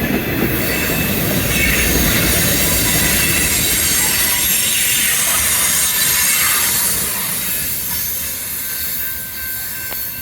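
Freight train cars rolling past with wheels squealing against the rail, a steady loud rumble with thin high-pitched squeal tones that eases a little near the end.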